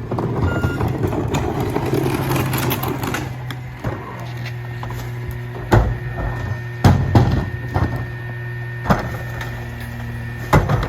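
A rear-loader garbage truck's diesel engine idles steadily. A rushing, clattering noise fills the first three seconds or so, then comes a series of sharp bangs, about five of them, from about six seconds on.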